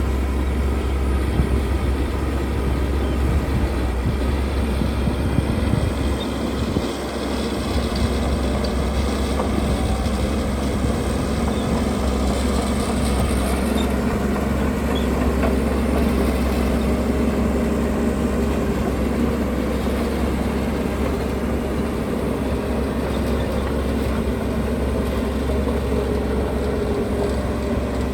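Heavy diesel construction machinery running steadily under load, a continuous deep engine rumble.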